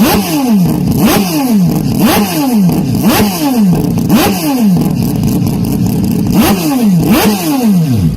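Loud race-car engine note. About once a second the pitch drops away and then jumps back up, the same sweep repeating over and over. It cuts off abruptly near the end.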